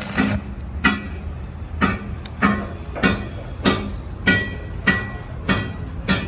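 Hammer striking steel at an even pace, about every 0.6 s, with nine or ten ringing blows, over a steady low hum.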